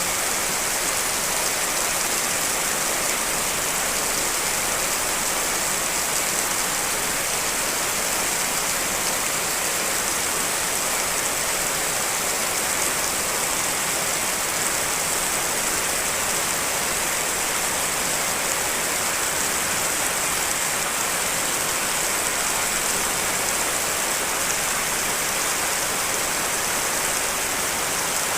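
Steady heavy rain, a dense even hiss of falling water with no separate drops standing out, from layered rain recordings.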